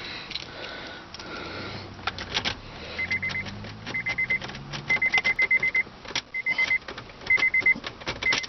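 Rapid electronic beeping from the 1997 Honda Accord's warning chime, in short bursts that stop and start, mixed with the clicks and jingle of keys working a tricky ignition switch.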